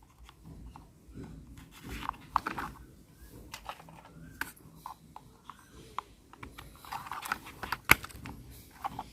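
Light clicks, taps and scrapes of toy parts being handled as the wheels are fitted one by one onto a toy mixer truck, with one sharper click near the end.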